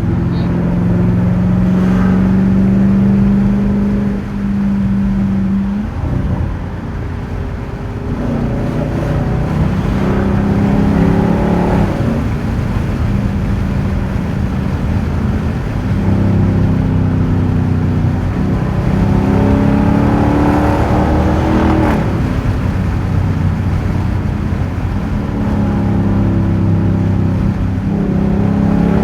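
Straight-piped 5.7-litre HEMI V8 exhaust of a 2021 Dodge Durango R/T under way, droning steadily. Its pitch rises twice as it accelerates, about a third of the way in and again about two-thirds in, dropping back after each pull.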